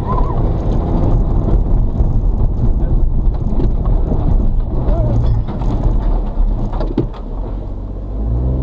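Suzuki Carry kei truck's 660cc three-cylinder engine labouring under load on a muddy uphill climb, heard from inside the cab. About seven seconds in there is a sharp knock and the engine sound dips, then the revs rise again near the end.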